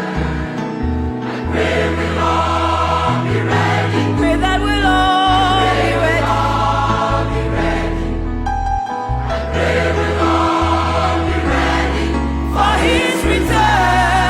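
A choir singing a gospel song, voices held on long notes with vibrato, over instrumental accompaniment with sustained bass notes.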